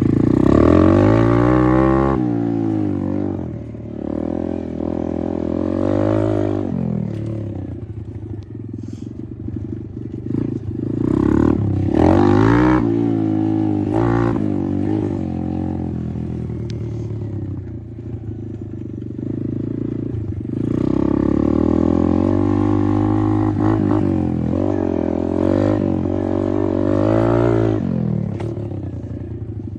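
Apollo RFZ 125 dirt bike's 125cc single-cylinder four-stroke engine revving up and easing off again and again while riding, its pitch climbing in runs and dropping back between them.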